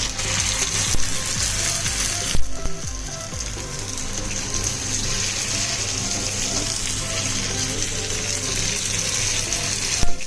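Vermicelli-coated chicken croquettes deep-frying in hot oil, a steady sizzle throughout with a brief break a couple of seconds in. Background music plays underneath.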